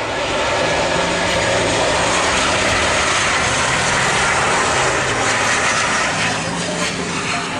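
Airliner engines heard close by: a loud, steady rushing noise with a low hum underneath, easing slightly near the end.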